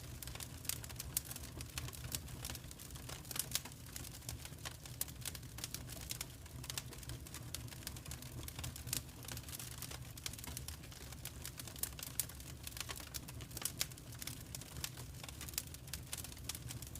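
Wood fire crackling in a fireplace: a steady stream of irregular sharp pops and snaps over a low, steady rumble of the burning fire.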